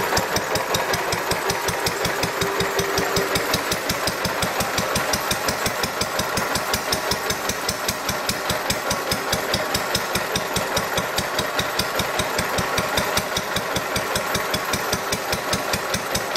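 1936 Lister 2 horsepower single-cylinder stationary engine running slowly at idle, a fast, even knocking beat of firing strokes.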